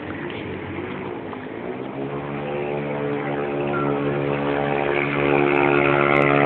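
A motor vehicle's engine running steadily, growing louder from about two seconds in and louder again near the end.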